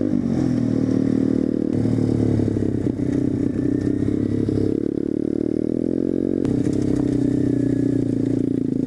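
Small motorcycle engine running under way, its note falling just after the start and shifting again about two seconds in and near six and a half seconds.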